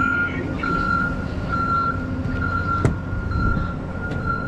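A vehicle's reversing alarm beeping, repeated single-pitch beeps about once a second, over the low running of a truck engine. One sharp click sounds near three seconds in.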